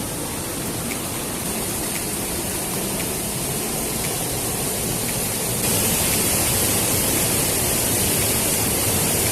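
Waterfall, its falling water making a steady rushing noise that grows louder and hissier about five and a half seconds in.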